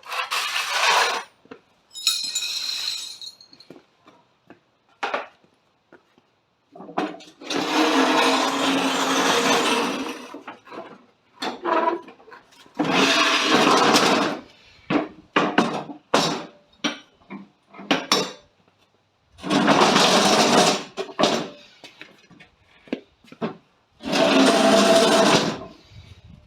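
A handheld power tool run in about five short bursts of one to three seconds each, with sharp clicks and clanks of hand tools and metal parts in between.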